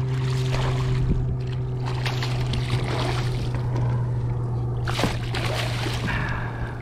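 Water splashing and sloshing beside a kayak as a hooked redfish is fought close in, in several irregular bursts, over a steady low hum.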